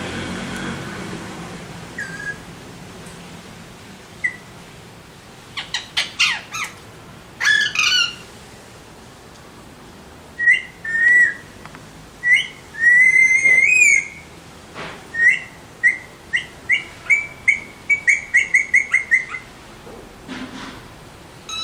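Alexandrine parakeets calling: a few harsh squawks, then whistled notes, then a quick run of short chirps, about five a second, near the end.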